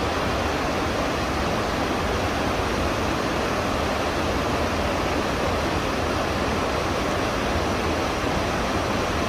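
A waterfall rushing: a steady, even noise of falling water with no change in level.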